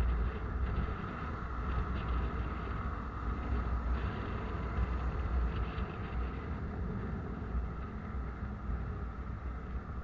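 Steady low rumble of a moving road vehicle, with wind buffeting the microphone.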